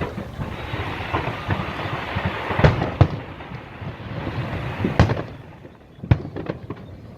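Aerial fireworks bursting: four loud, sharp bangs, at about two and a half, three, five and six seconds in, over a continuous rumble with smaller crackling pops.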